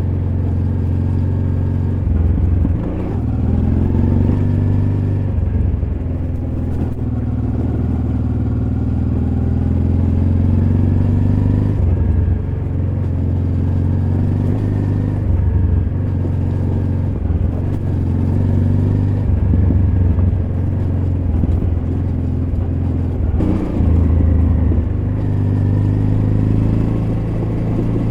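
Honda Transalp XL600V V-twin motorcycle engine running under way, its pitch rising and falling again and again as the throttle opens and closes.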